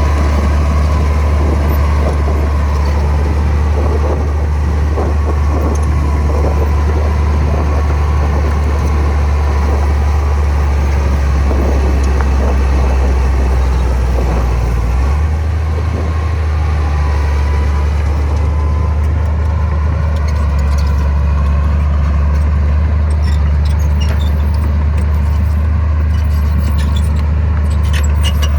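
Komatsu bulldozer's diesel engine running steadily with a deep rumble. The engine note changes about halfway through, and light metallic clicking comes in during the last third.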